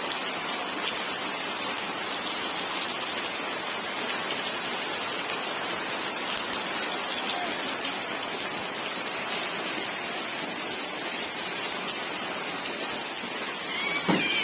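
Heavy rain falling, a steady, even hiss of drops hitting the ground and puddles. A brief squeaky sound rises and falls near the end.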